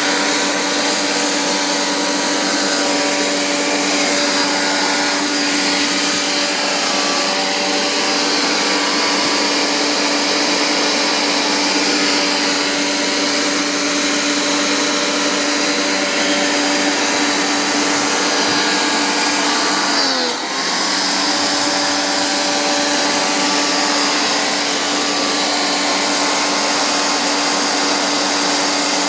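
An electric motor-driven machine running steadily with a constant hum and whine. About twenty seconds in, its pitch sags for a moment, then comes back up.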